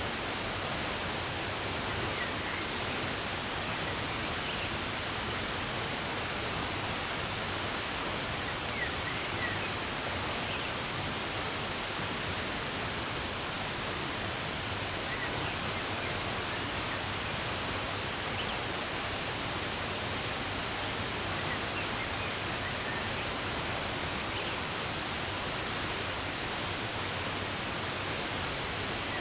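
Steady rush of running water, with faint bird chirps here and there.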